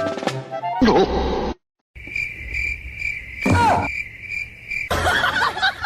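A steady, high, cricket-like trill for about three seconds, with a short falling animal cry in the middle of it.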